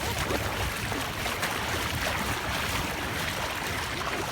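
Steady rushing noise of wind buffeting the microphone mixed with water washing at the shore, with a strong low rumble.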